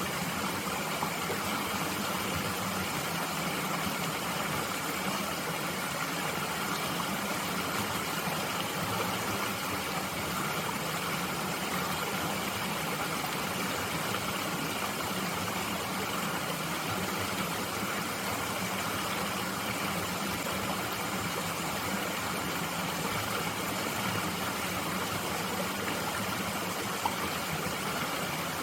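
Mountain stream flowing, a steady, unchanging rush of water.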